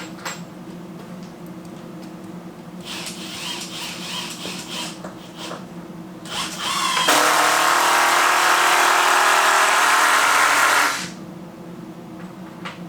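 A handheld power tool running in wood: a few short spurts, then one loud, steady run of about four seconds that stops sharply. A low, steady hum lies underneath throughout.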